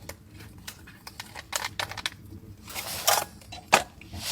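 Irregular crackling clicks and sharp snaps, with two louder snaps a little past three seconds and just before four seconds in.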